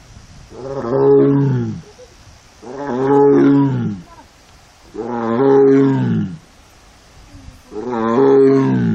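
A female Amur (Siberian) tiger in heat calling: four long, moaning calls, each rising then falling in pitch, about every two and a half seconds. This is estrus calling.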